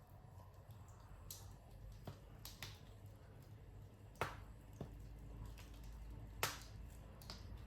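Wood fire crackling in a fireplace: sharp single pops a second or so apart, the loudest about four and six and a half seconds in, over a low steady rumble.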